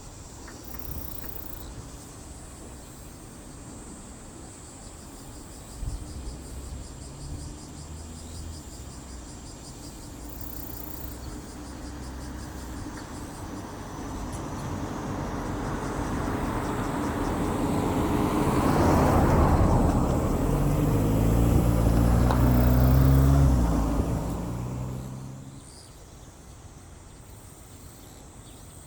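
A motor vehicle approaching and passing close by: its engine grows steadily louder over several seconds, the engine note climbing in a few steps near the loudest point, then drops away quickly about three-quarters of the way through.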